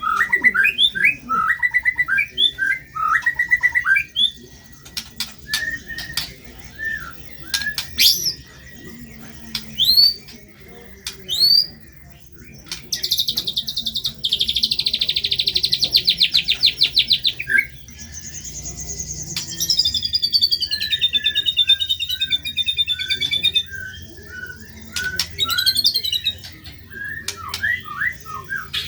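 White-rumped shama (murai batu) singing a varied song: quick chirps, sharp rising whistles, a long rapid trill about halfway through, then a falling warbled run and more short chirps.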